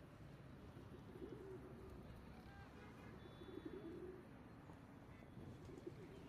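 Pigeons cooing faintly, three low warbling coos a couple of seconds apart, over a steady background hiss.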